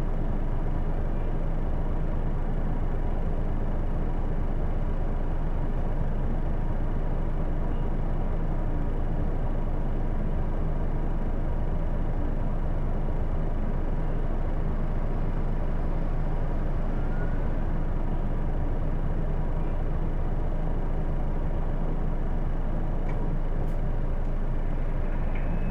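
Hino Blue Ribbon II city bus's inline-six diesel idling steadily while standing, heard from inside the cabin, with a thin steady high tone over the engine hum.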